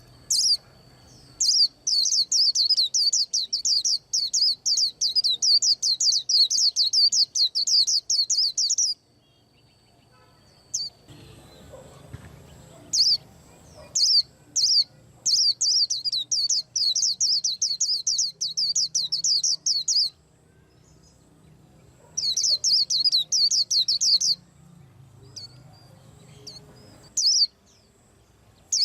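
Small songbird singing rapid runs of high, quick-repeated chirping notes. One long run lasts about the first nine seconds; after a pause come shorter runs and single notes.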